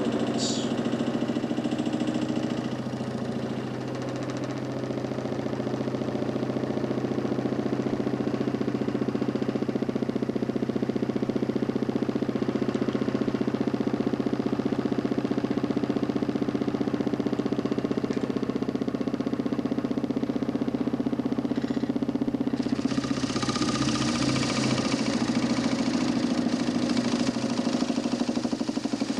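DC motor spinning a homemade 40 cm plywood Nipkow disc, a steady mechanical hum with a fast flutter. About 22 seconds in, a brighter hiss joins it and stays.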